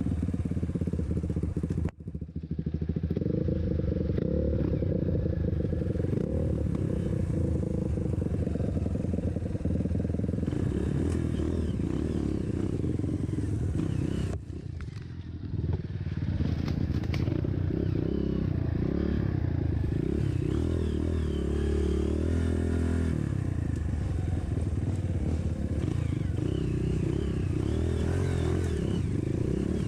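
Dirt bike engine running steadily as the bike rides a trail, with rattling and clatter over the ground. The sound drops out briefly twice, about two seconds in and again around the middle.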